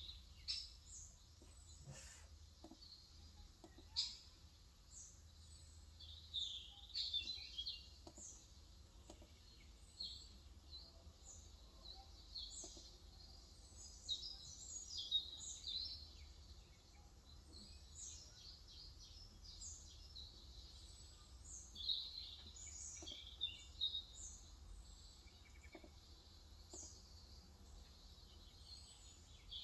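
Small songbirds chirping continuously in quick, high, short calls, with a few faint scattered clicks.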